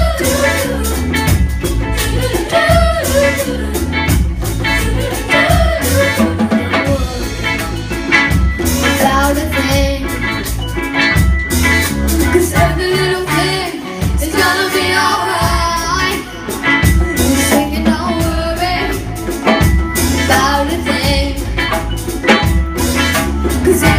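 Live band playing a reggae song, with bass, drums and singing.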